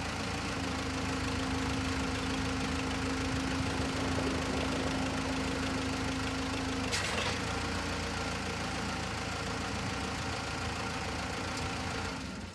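Case 580B backhoe engine running steadily at idle. About halfway through there is a single sharp click, and a steady whine that was running alongside the engine stops there.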